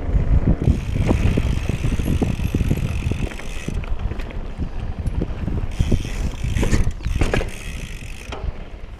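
Mountain bike rattling and knocking over a rough dirt trail, with a steady low rumble and wind on the microphone. Two stretches of added hiss come and go.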